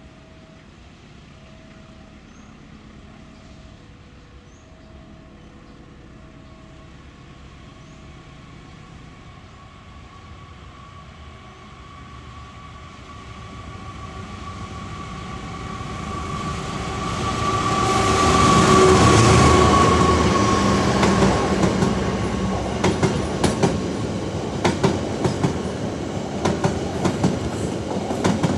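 Passenger train approaching and passing close by, growing steadily louder to a peak about two-thirds of the way in, then the coaches' wheels clacking rapidly over rail joints as the train goes past.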